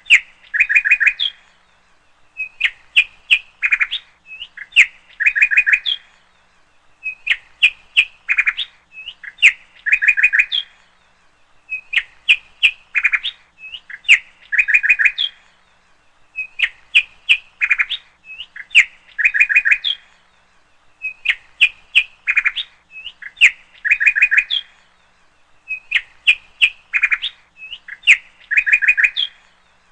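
Birds chirping and trilling in short bright phrases that repeat evenly about every two seconds, with the same pattern coming round again and again.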